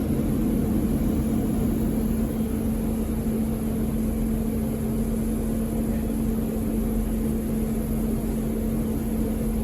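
Inside a moving passenger train: a steady running drone of the train with a constant hum and low rumble, unchanging throughout.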